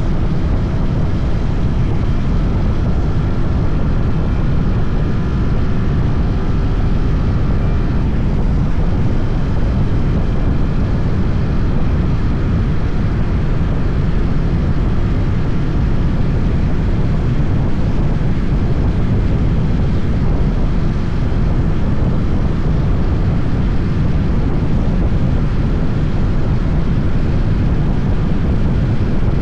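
SYM NH 180 motorcycle being ridden: a steady rush of wind over the microphone with the engine running underneath. Faint engine tones shift in pitch during the first several seconds.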